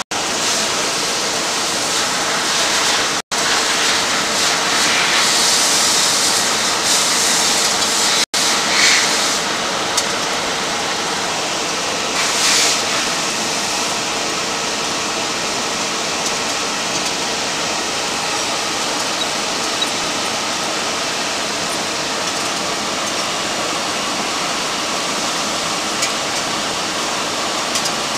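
Intermac Diamut grinder reprofiling a turbo diamond wheel: a steady, even grinding hiss with a faint hum under it, growing louder for a few seconds near the start. The sound cuts out briefly twice, about 3 and 8 seconds in.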